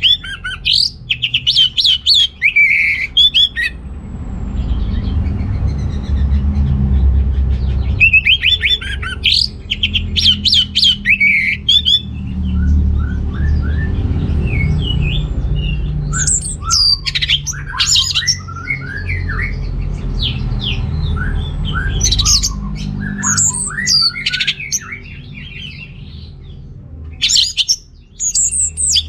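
Orange-headed thrush singing in about five bursts of rapid, varied high notes separated by short pauses, over a steady low rumble.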